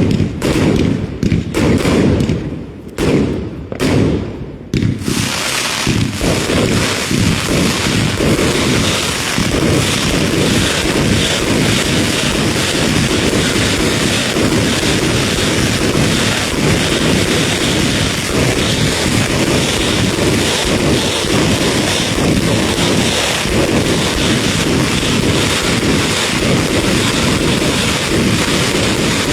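Fireworks going off in a dense barrage. There are dull thumps in the first few seconds, then a continuous rapid crackle of bangs from about five seconds in.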